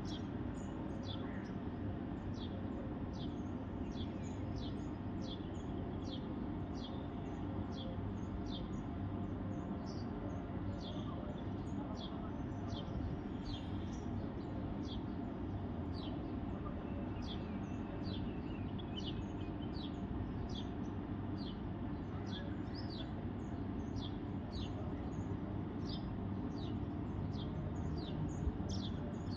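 A bird calling over and over in short, high chirps that sweep downward, about one to two a second, over a steady low background noise.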